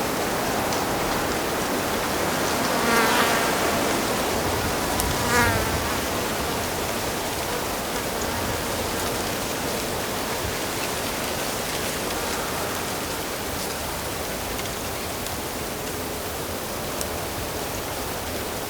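Steady rush of flowing stream water, with a flying insect buzzing close past twice, about three and five seconds in.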